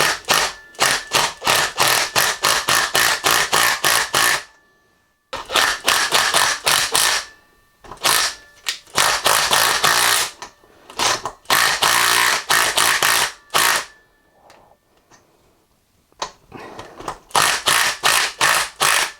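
Impact wrench hammering in rapid bursts of one to four seconds with short pauses between, working a stuck axle nut loose on a scooter wheel.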